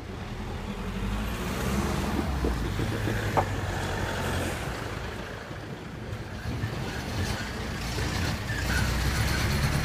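Road traffic passing close by: a heavy vehicle's engine rumbling low and steady, with a brief squeak about a third of the way in.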